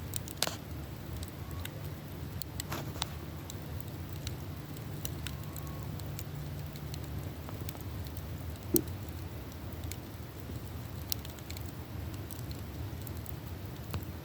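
Wood campfire burning: scattered sharp pops and crackles over a steady low rumble, with the loudest single pop a little past the middle.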